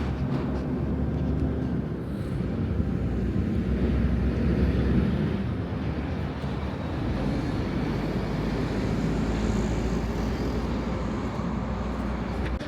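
Low, steady rumble of a large passing vehicle, swelling to its loudest about four to five seconds in, then holding level until it fades at the end.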